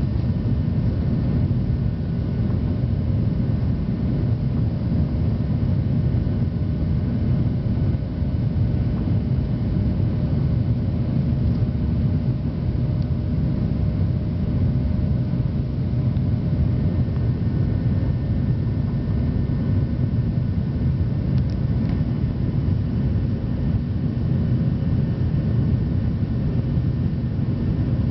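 Airliner engines and airflow heard inside the passenger cabin during take-off or climb: a steady low rumble with faint steady tones above it.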